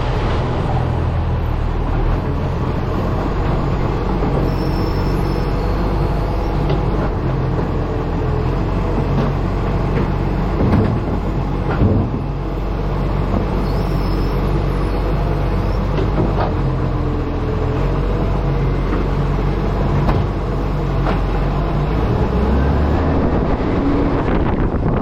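Acco garbage truck's diesel engine running on the move, with road noise and wind buffeting the microphone of the camera mounted on the truck's front. A few knocks and rattles come through, and the engine note shifts near the end.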